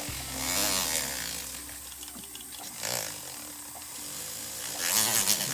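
Electric sander running, with rasping surges about half a second in, near the middle and near the end as a sterling silver fitting is pressed against it to take off the high edges.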